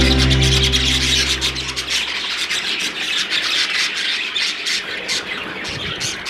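Background music fades out over the first two seconds, leaving a flock of budgerigars chattering, a dense mix of chirps and squawks.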